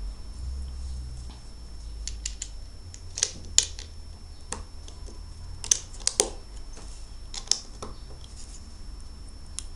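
Plastic Lego bricks clicking and clacking as pieces are handled and pressed together, in a dozen or so irregular sharp clicks, the loudest about three and a half seconds in.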